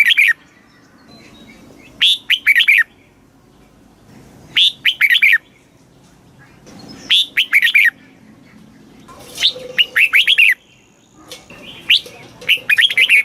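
Red-whiskered bulbul singing: short phrases of four or five quick whistled notes, each falling in pitch, repeated about every two and a half seconds.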